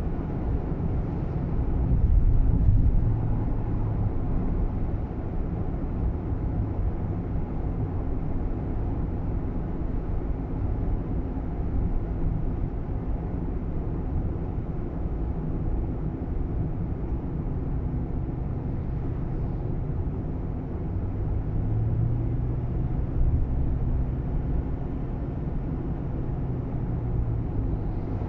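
Steady engine and road noise inside the cabin of a moving Nissan Roox kei car, with a low engine drone that rises a little at times.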